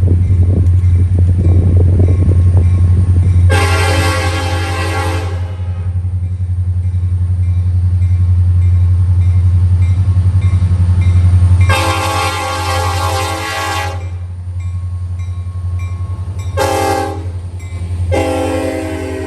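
Diesel freight locomotive's air horn sounding the grade-crossing signal: long, long, short, long. The horn plays over a steady low rumble from the train.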